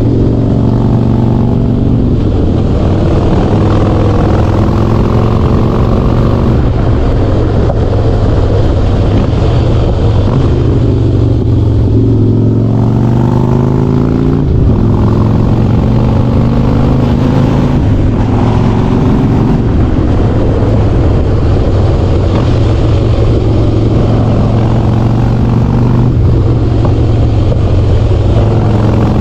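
Harley-Davidson Softail Standard's V-twin engine through a Vance & Hines Big Radius chrome exhaust, ridden on the road. Its deep, steady exhaust note rises in pitch again and again as the bike accelerates, dropping back at each gear change.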